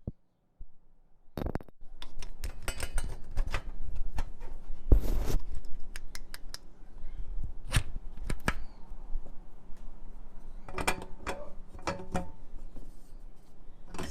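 Metal parts and hand tools clinking, tapping and knocking in a small garage: a string of sharp knocks, some ringing briefly, with a longer metallic rattle about five seconds in.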